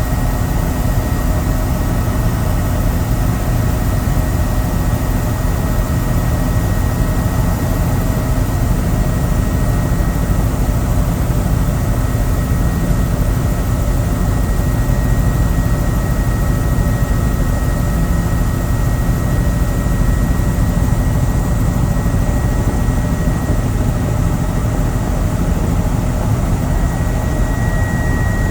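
Helicopter in steady flight: the turbine engine and rotor make a continuous loud drone with a steady high whine over it, heard from aboard.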